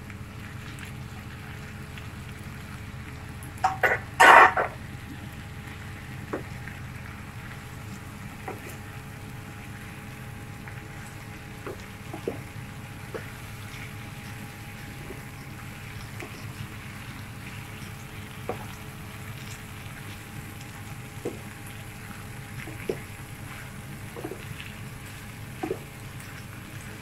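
Chicken and onion frying in a pan: a low, steady sizzle with scattered small pops, over a faint steady hum. A short, loud burst of sound about four seconds in.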